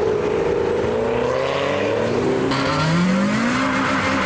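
Car engines as cars drive away. About two-thirds of the way through, one engine revs up, rising in pitch.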